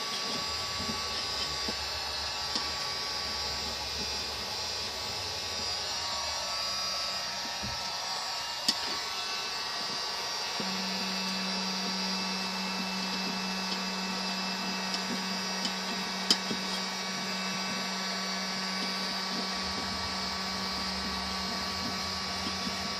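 Steady whir of a small electric motor-driven blower running continuously. A low hum joins it about halfway through, and there are two sharp clicks.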